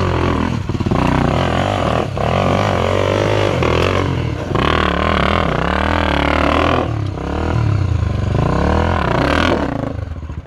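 Honda Tornado 250 single-cylinder four-stroke dirt bike engine revving hard under load on a steep, loose-rock hill climb. Its pitch rises and falls again and again as the throttle is worked, and it fades away near the end.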